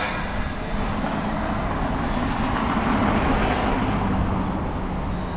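A road vehicle driving past in street traffic. Its engine and tyre noise swells to a peak about three seconds in, then fades.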